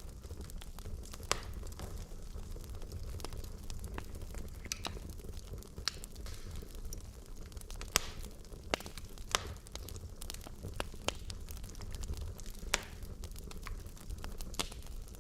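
Wood fire burning in a fireplace: a steady low rumble of the flames with irregular sharp crackles and pops from the burning logs, a few louder pops standing out.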